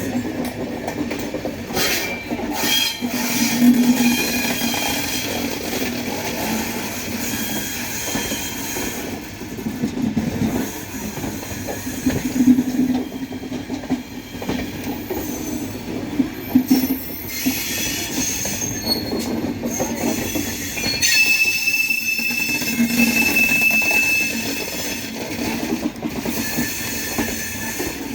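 Chozhan Superfast Express passenger train running on the rails with a steady rumble. Its wheels squeal in high tones on and off, most clearly as a long squeal a little past two-thirds of the way through. A few clacks come from the rail joints.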